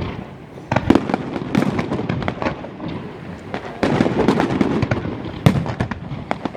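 Fireworks going off: a rapid, irregular run of bangs and dense crackling, with one sharp bang about five and a half seconds in.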